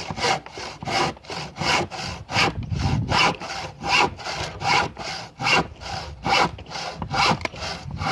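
Hand saw cutting through a piece of wood with steady back-and-forth strokes, about two to three a second.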